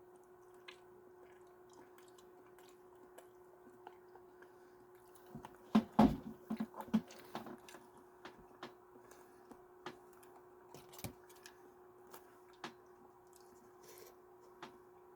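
Scattered small clicks and knocks, with a louder cluster of knocks about six seconds in, over a faint steady hum.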